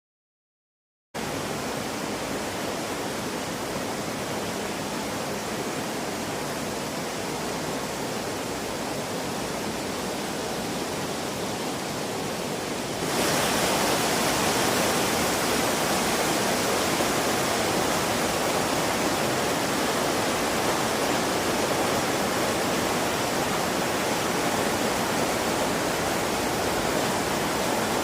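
Rushing water of a river swollen after heavy rain, a steady roar with no rhythm. It starts abruptly about a second in and becomes louder about halfway through.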